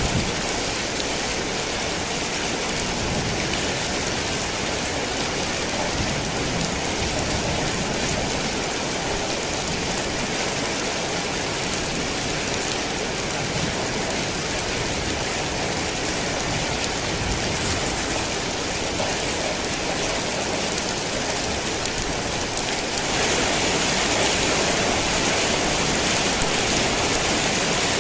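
Heavy rain falling steadily, a dense even hiss of drops on surfaces; near the end it grows a little louder and brighter.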